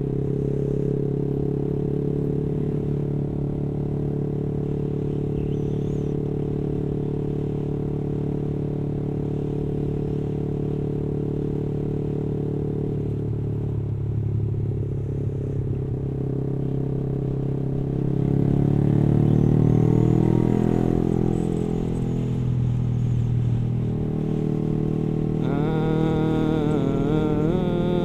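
Yamaha R15 V3's single-cylinder 155 cc engine running steadily at a moderate cruising speed under the rider, with the engine note rising and then easing off again about two-thirds of the way through. Near the end a wavering, pitched tone joins over the engine.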